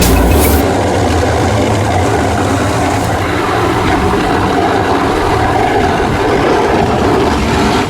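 Plow truck running steadily while plowing snow, a dense continuous rumble and rush of noise.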